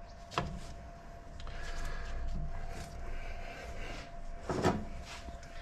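Scattered clicks and knocks of hand tools and metal engine parts being handled as a sensor is worked loose, the loudest knock about four and a half seconds in, over a faint steady hum.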